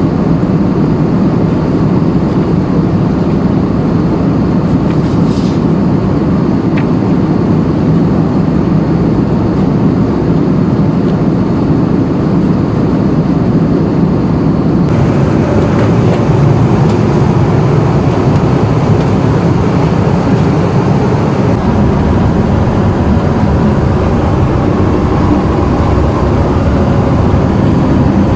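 Steady cabin roar of an Airbus A320 in flight, from engine and airflow noise, with the tone shifting abruptly about halfway through.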